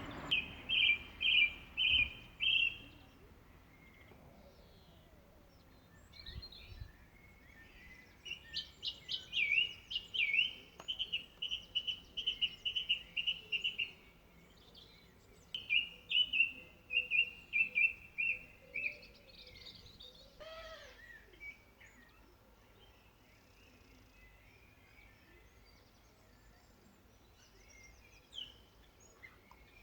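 A songbird singing in phrases of quick, repeated whistled notes, each phrase a few seconds long with pauses between; a different sweeping call sounds a little past the middle.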